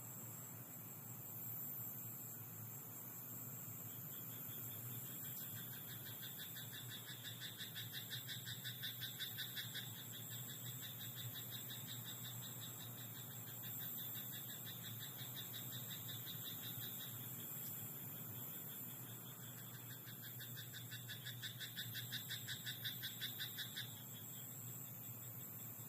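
Frogs croaking in a rice paddy at night: two long bouts of rapid pulsed calls, the first starting about four seconds in and the second near the end, over a steady high hiss.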